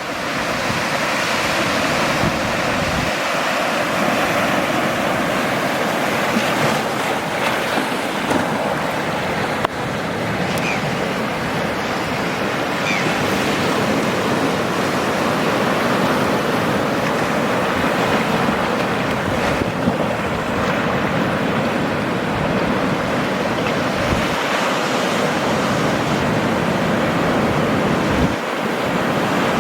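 Ocean surf: Atlantic waves breaking in a steady, continuous wash, with some wind noise.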